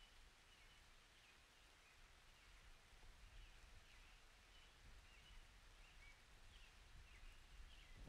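Near silence, with faint short bird chirps repeating about twice a second.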